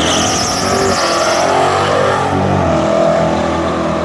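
A Chevy pickup and a Nissan 370Z's V6 accelerating hard side by side in a drag race. Their engine notes climb and drop as they shift through the gears.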